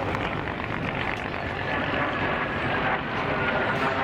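Turbojet engine of a vintage jet fighter, a steady roar with a faint whine over it.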